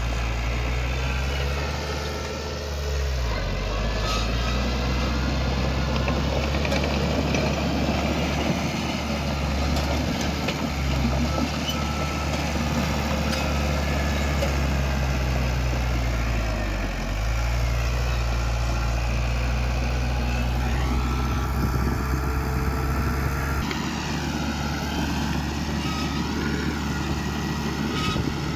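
Diesel engine of heavy earthmoving machinery running steadily, its pitch dipping briefly twice as it eases off and picks up again. Wavering whines rise and fall above it in the second half.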